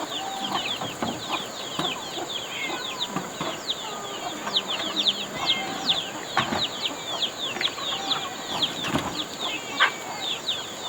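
Chickens: a crowd of chicks peeping in quick, high, falling chirps, with an occasional lower cluck from a hen. A steady high-pitched drone runs underneath.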